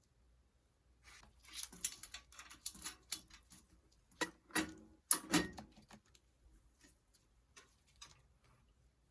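Irregular clicks, clinks and knocks of metal tools and bicycle parts being handled during repair work, with a few sharper strikes about four to five seconds in and only faint ticks after that.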